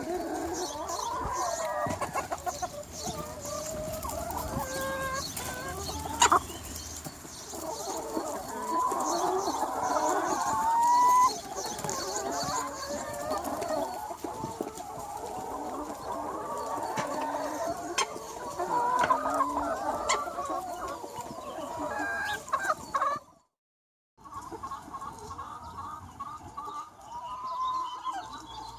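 A large free-range flock of about 200 chickens, clucking and chattering over one another without a break. A short gap of silence falls about four-fifths of the way through, and then the clucking resumes.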